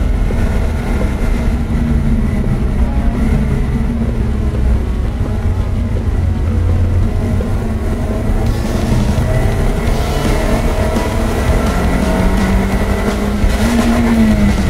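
Lotus Elise engine running hard on a wet circuit, heard inside the cabin along with road and tyre noise. The revs climb steadily in the second half, and near the end the pitch rises briefly and drops.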